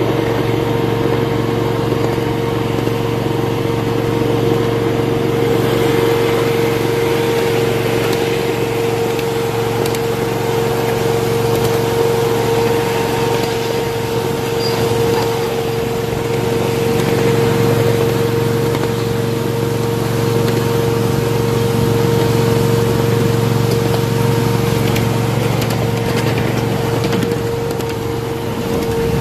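A 1/8 scale miniature train running at a steady speed, heard from aboard. A constant pitched whine and drone sits over a steady rushing noise of the ride.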